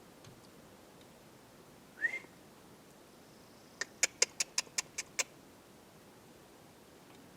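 An animal calling: one short rising whistle, then a quick run of about eight sharp chips in about a second and a half.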